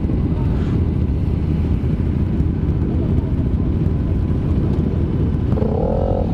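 KTM Duke 390's single-cylinder engine idling in slow stop-and-go traffic among other motorcycles, a steady low rumble. Near the end a short wavering tone rises and falls over it.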